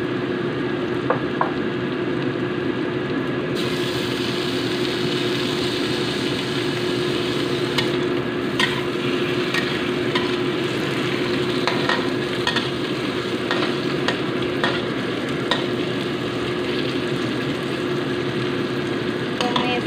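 Sliced bird's eye chilies, onion and garlic sizzling in hot oil in a wok, stirred with a metal spatula that clicks and scrapes against the pan every second or two. The sizzle turns brighter and hissier a few seconds in.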